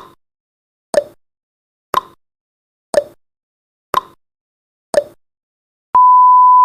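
Countdown timer sound effect ticking once a second, six ticks, then a steady high beep starts about a second from the end, signalling that the countdown has reached zero.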